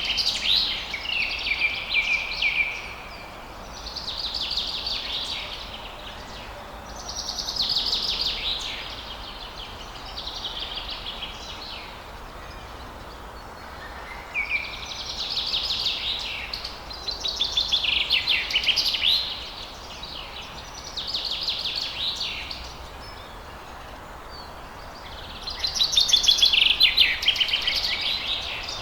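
A songbird singing over and over in short phrases of rapid trilled notes, each phrase one to three seconds long with brief pauses between, over a steady background hiss.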